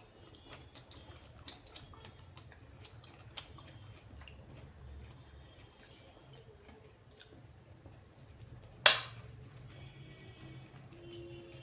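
Close-up eating sounds: small wet clicks and mouth noises from chewing and handling food, with one loud sharp crunch or knock about nine seconds in.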